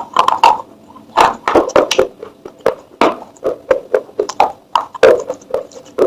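Pieces of baked clay pot crunching and crumbling in a quick, irregular run of sharp crunches, several a second.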